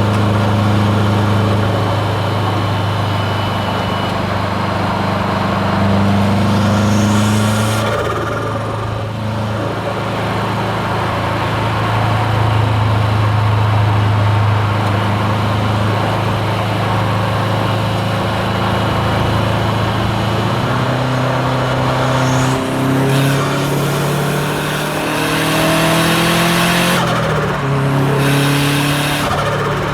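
Subaru WRX STI's turbocharged flat-four running under load on the road, steady at first, then climbing in pitch in steps through gear changes in the second half. Several short rushes of hiss break in as the throttle is lifted, typical of turbo flutter and the external wastegate venting.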